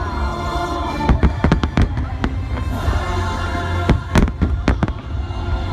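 Fireworks bursting, many sharp bangs in quick clusters, over music playing.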